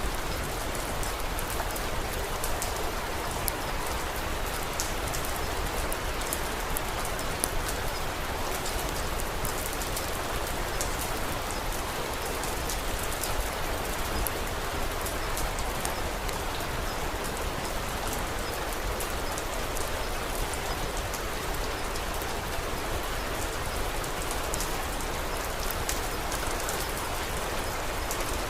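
Steady rain falling, thick with many small sharp ticks of drops striking.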